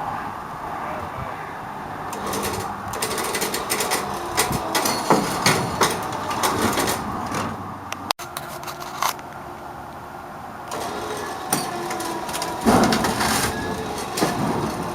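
A steady machine hum with irregular metallic knocks, clanks and creaks coming in clusters, loudest about a third of the way in and again near the end.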